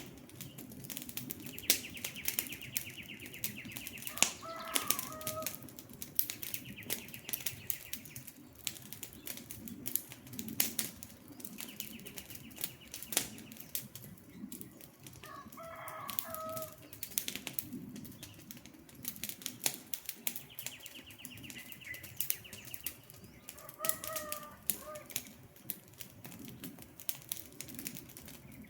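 Wood campfire crackling with frequent sharp pops over a low steady rumble. A bird's short pitched call recurs about every ten seconds, and a fast buzzy trill comes and goes between the calls.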